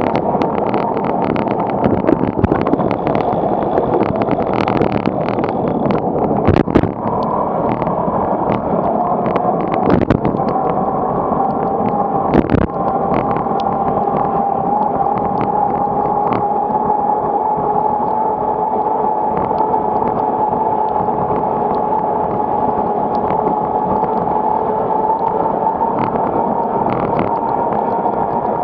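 Typhoon wind rushing over the microphone of a moving bicycle, a loud, steady noise with scattered knocks and clicks. From about seven seconds in, a steady whistling tone runs under it and rises slightly in pitch.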